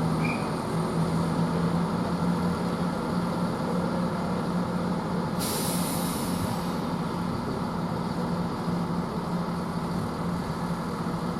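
Class 170 Turbostar diesel multiple units idling at the platform with a steady low hum, and a sudden hiss of air for about a second and a half about five seconds in.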